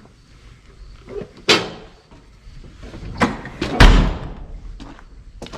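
A door being slammed shut: a sharp bang about a second and a half in and a louder, heavier bang about four seconds in, with lighter knocks and clicks around them.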